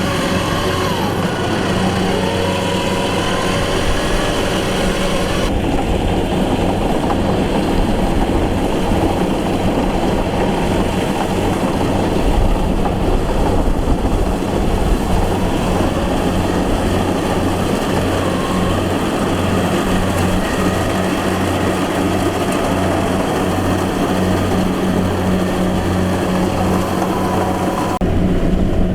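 Combine harvester's engine running steadily at working speed, a constant low hum with a clattering mechanical haze above it. The higher part of the sound drops off abruptly about five seconds in.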